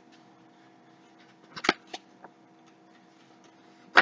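A picture-book page being turned: a short papery rustle with a few light handling clicks about one and a half to two seconds in, and another click at the end, over a faint steady hum.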